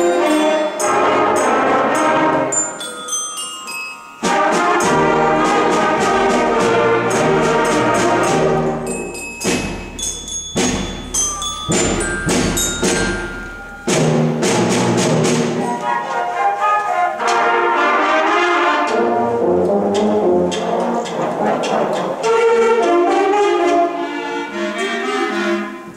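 A sixth-grade concert band playing, with brass such as trombones and trumpets to the fore and mallet percussion ringing high notes.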